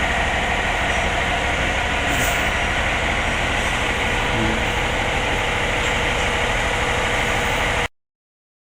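Heavy diesel engine of a Western Star truck idling steadily, cutting off suddenly near the end.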